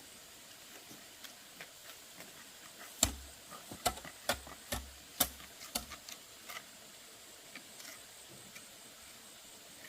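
A quick run of about seven sharp knocks over about three seconds, starting a third of the way in, with a few fainter ticks after and quiet background around them.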